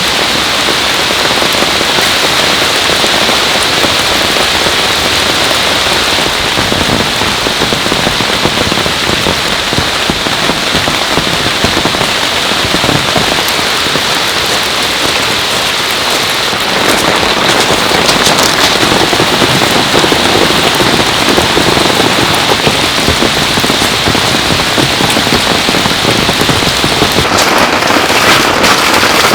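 Heavy rain falling in a steady downpour, growing somewhat louder about seventeen seconds in.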